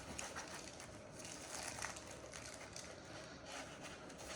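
Rustling and scraping of packaging, with a few light clicks, as a diecast model airplane is lifted out of its box.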